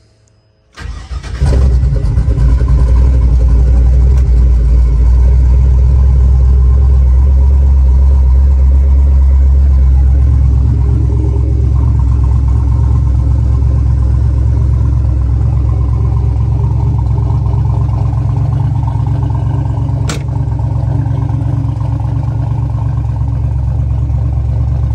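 Twin-turbo 5.3 LS V8 in a 1971 Chevrolet C-10 starting about a second in, then running steadily at idle with a deep rumble that settles a little lower midway. A single sharp click comes near the end.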